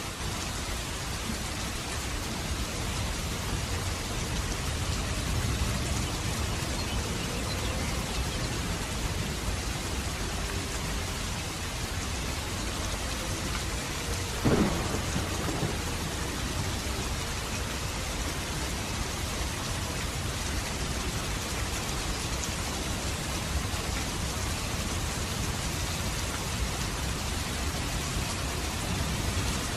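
Steady heavy rain with a low rumble underneath. About halfway through there is one brief, sharp sound that falls in pitch.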